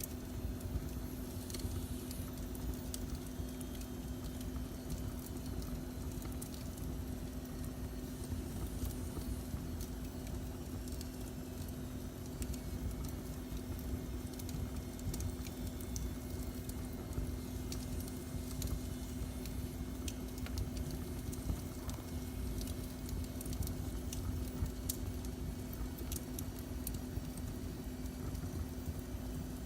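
Fire burning in a fireplace: scattered sharp pops and crackles over a steady low rumble with a constant low hum.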